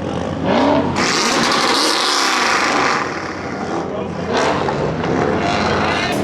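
Car engine revving at a car meet, with a loud hissing rush that lasts about two seconds from roughly a second in, and shouting voices around it.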